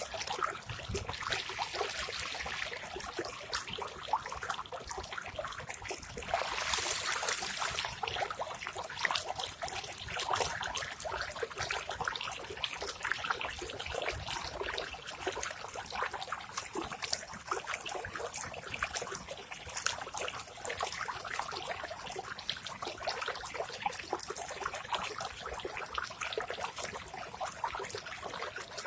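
Running water trickling and splashing steadily, a dense patter of small drops and bubbles, swelling louder for a second or two about seven seconds in.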